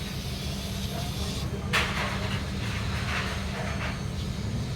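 Steady low hum of welding equipment, with a high hiss that cuts off about one and a half seconds in, then a sharp knock and a few lighter knocks against metal.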